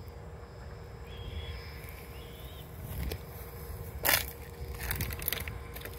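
Footsteps crunching on the stones of a railroad track bed, with a sharper crunch about four seconds in. Two faint bird calls sound about a second in and again about two seconds in.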